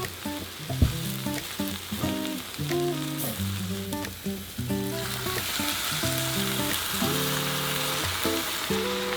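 Food frying in oil in a pan, sizzling, the sizzle growing louder about five seconds in. A single sharp knock sounds about a second in.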